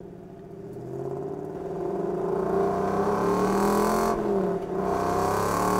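Race car engine running hard, fading in and growing louder over the first couple of seconds, with a brief drop in pitch and level about four seconds in before it picks up again.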